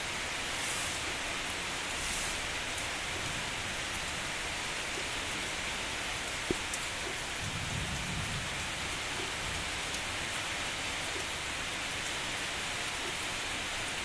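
Steady heavy rain falling, with one sharp tap of a drop about halfway through and a brief low rumble of distant thunder just after it.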